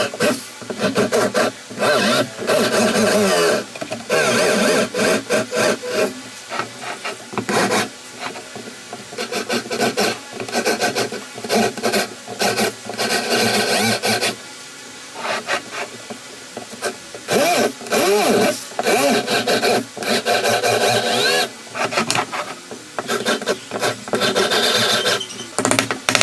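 A hand tool scraping wood in fast, repeated short strokes, like filing or sanding a cage part by hand. The strokes come in runs of a second or two with short pauses between them, and now and then a faint squeak.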